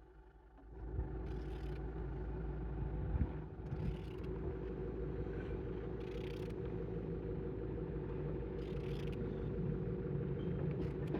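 Engine running steadily at idle, with an even hum over a low rumble, rising in level about a second in.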